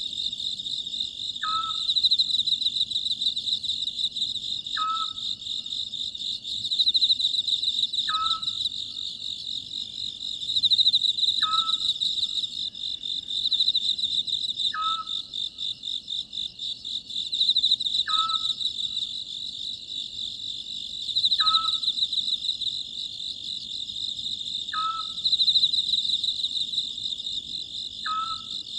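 Oriental scops owl calling, a short note repeated about every three seconds, over a steady chorus of crickets whose high chirring swells and fades.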